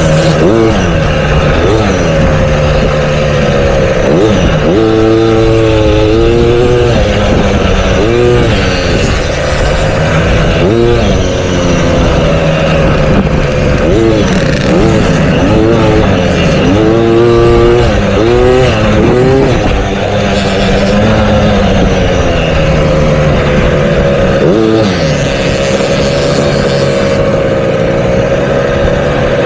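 Motocross bike engine ridden hard around a dirt track, its pitch rising and falling over and over as the throttle is opened and shut through the corners and jumps.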